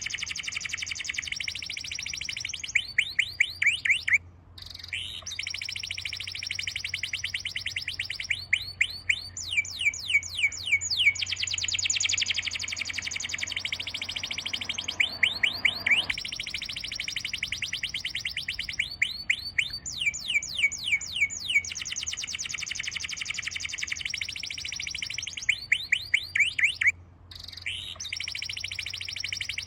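Bird song: long rapid trills of high chirps, repeated with hardly a pause, breaking off briefly about four seconds in and again near the end. A faint low hum underneath stops about halfway through.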